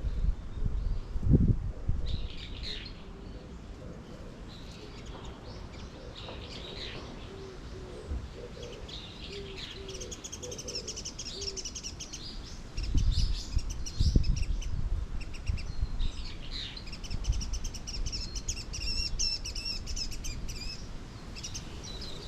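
Small songbirds chirping and calling, with rapid high trills about ten seconds in and again near the end. A run of low short notes sits under the birdsong in the middle, and a few low rumbles come and go.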